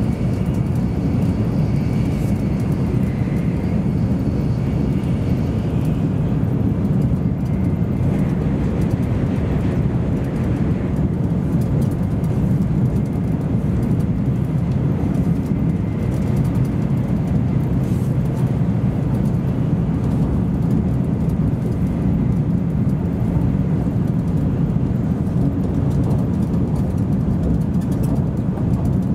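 Steady running noise inside an N700 series Shinkansen car travelling at speed: a low, even rumble of wheels on rail and the carbody moving through the air. Faint high steady tones sit over it for the first ten seconds or so and then fade out.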